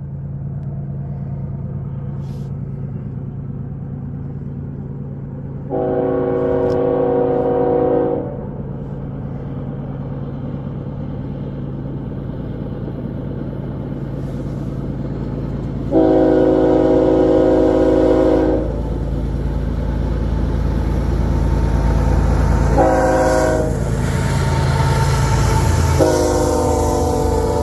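Freight locomotive horn sounding long, long, short, long, the standard grade-crossing signal. Under it, the low rumble of the approaching GE diesel locomotives grows steadily louder.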